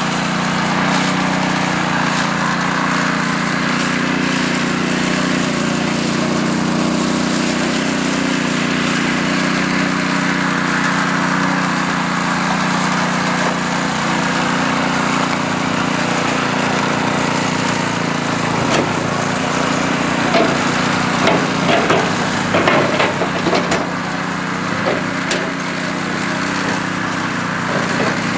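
Power trowel's small engine running steadily. About two-thirds of the way in comes a run of sharp knocks and clatters lasting a few seconds.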